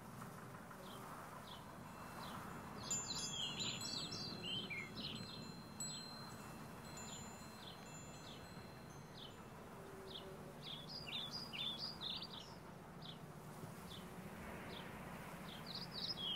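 Small birds chirping in short, high, repeated notes, with busier flurries about three seconds in, around eleven seconds and at the end, over a faint low steady hum. A thin high ringing holds for several seconds from about three seconds in.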